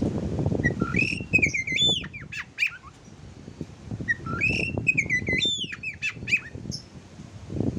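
Songbird-style whistled song in two phrases of quick rising and falling notes, the first about a second in and the second about four seconds in: song material used to prompt a caged oriental magpie-robin to sing. A low rustling noise runs underneath.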